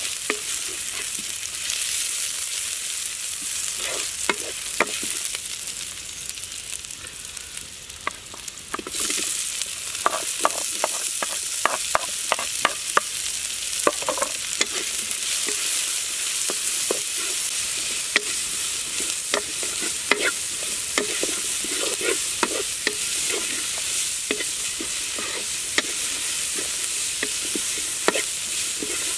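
Ginger, garlic, sliced red onion and chillies sizzling in oil in a nonstick wok, stirred with a wooden spatula. The spatula scrapes and taps the pan in frequent sharp clicks. The sizzle is quieter for a few seconds, then grows louder about nine seconds in.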